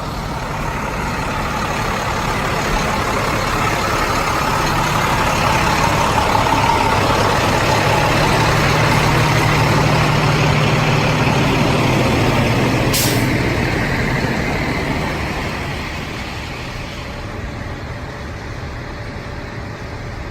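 Heavy trucks rolling past. The engine noise builds to a peak about halfway through and then fades as they go by. About two-thirds of the way in there is one short, sharp hiss of an air brake.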